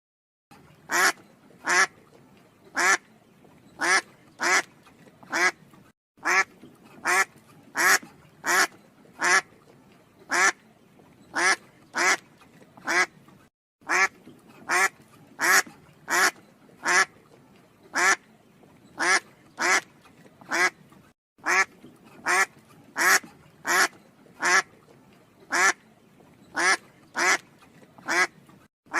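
An animal calling over and over: short, loud calls repeated about every half to one second, broken by three brief moments of silence.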